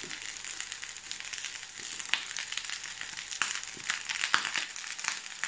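Freshly added cooked rice crackling and sizzling in a hot frying pan, a steady hiss with scattered small pops and ticks.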